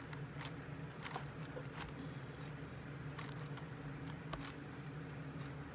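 Steady hum of honeybees around an opened hive, with scattered small clicks and scrapes as honeycomb is worked loose from the wooden frame it is glued to.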